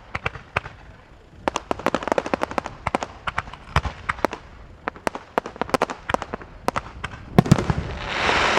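Fireworks going off: rapid, irregular crackling reports and bangs, with a heavier bang about seven and a half seconds in, followed by a rising rush of crackling noise near the end.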